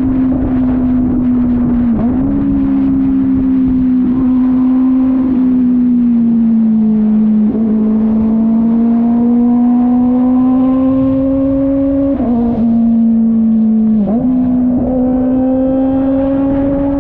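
Kove 450RR motorcycle engine running at steady cruising revs. Its pitch drifts slowly down and back up, with several brief dips.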